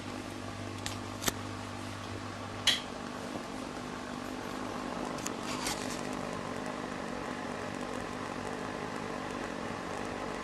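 Homemade methylated-spirit jet burner (Supa Burner) burning with a steady blowtorch-like hiss, its spirit vaporised and forced out as a jet. A few sharp clicks in the first three seconds; with the loudest, about 2.7 s in, a low electrical hum stops as the room light is switched off.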